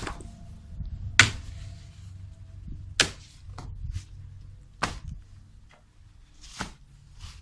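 A series of sharp, separate blows, irregularly spaced, about seven in all, the loudest about a second in and three seconds in, over a faint steady low hum.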